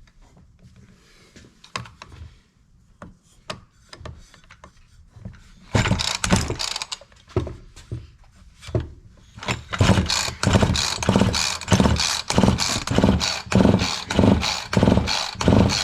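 Husqvarna 345 chainsaw's recoil starter pulled over and over to crank the engine for a compression test, about two pulls a second from roughly six seconds in, after a few small clicks and knocks. The compression gauge reads only about 60 psi, low against the well over 100 expected.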